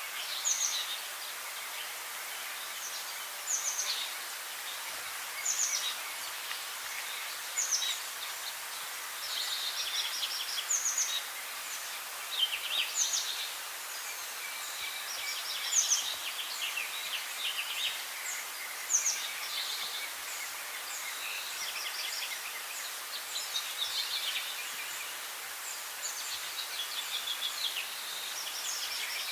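Several wild songbirds calling and singing over a steady background hiss, with short, sharply falling high notes and quick trills repeating every second or two.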